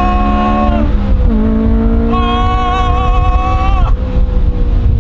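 Honda S2000's F20 four-cylinder, breathing through a JS Racing titanium 70RR exhaust, pulling hard on a dyno. The note climbs in pitch, dips briefly about a second in as it shifts, climbs again, then breaks off about four seconds in and slowly falls as the revs come down.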